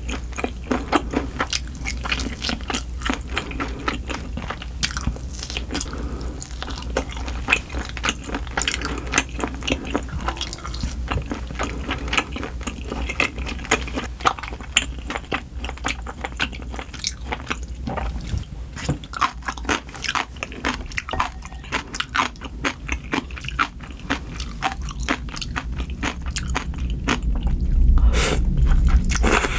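Close-miked chewing: a dense run of wet mouth clicks and crunches, several a second. Near the end it grows louder as buckwheat noodles are eaten from a ladle.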